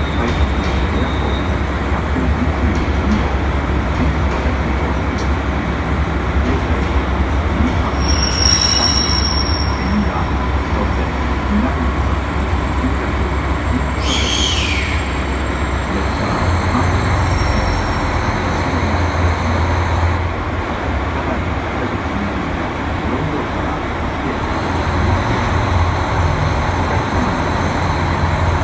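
JR Hokkaido 721 series electric train running, heard from inside the lead car: a steady rumble of wheels and running gear. A brief high tone about 8 seconds in and a short falling whine about halfway through.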